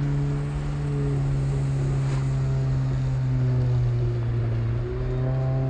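Honda motorcycle engine running steadily at road speed, a constant engine note over a rush of wind noise, the pitch shifting slightly near the end.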